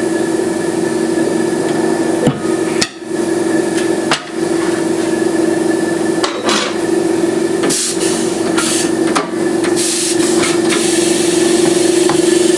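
Air compressor running with a steady drone and whine while it feeds a pneumatic tire changer breaking a motorcycle tire's bead. From about eight seconds in come several bursts of air hissing, the last one long.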